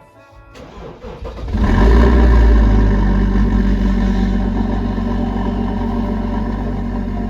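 BMW M57 inline-six turbodiesel of a 2012 X5 35d cold-started at about −25 °C. The starter cranks for about a second, the engine catches and flares up, then settles into a steady fast cold idle.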